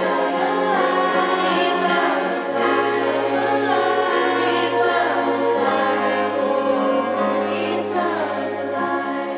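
Middle school choir singing long held chords in a slow refrain. A low note enters about two and a half seconds in, and the singing eases off near the end.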